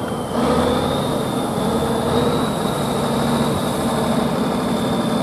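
Heavy truck engine running steadily and loud, with a steady high whine above it; the sound steps up abruptly a fraction of a second in.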